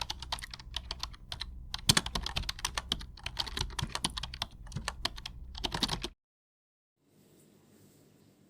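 Rapid, irregular clicking and tapping that cuts off abruptly about six seconds in, followed by about a second of dead silence and then faint room noise.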